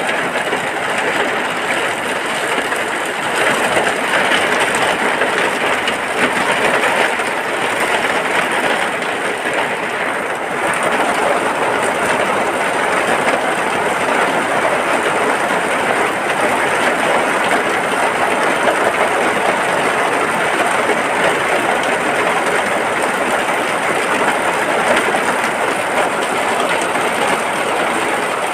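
Steady rain falling without a break, a dense, even hiss.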